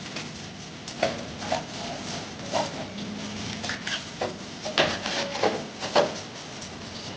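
Irregular knocks and clinks of handled objects or tools, a dozen or so at uneven spacing, several with a brief ring, the loudest cluster a little after the middle.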